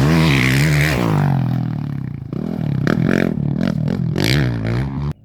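Off-road race motorcycle passing at speed, its engine pitch rising and falling as the rider works the throttle and gears; the sound cuts off suddenly near the end.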